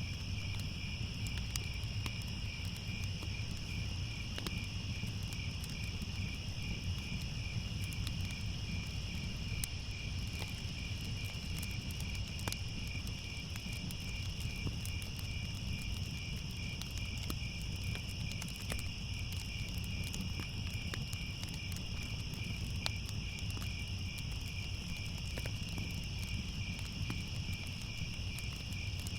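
Crickets chirping in a steady, evenly pulsing chorus, over a fireplace fire with a low rumble and scattered small crackles.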